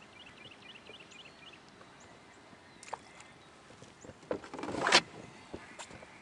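Handling noise in a fishing kayak: a sharp knock, then a loud rushing, scraping noise that swells for under a second and stops suddenly, with a few light clicks around it. A small bird chirps a quick run of short notes at the start.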